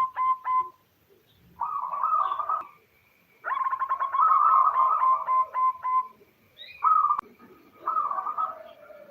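Female zebra dove calling in several bursts of fast, staccato cooing, the longest about two and a half seconds, with short pauses between them. This call draws male zebra doves to answer.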